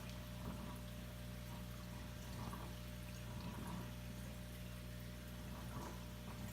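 Aquarium filtration running: water trickling and splashing into the tank over a steady low hum.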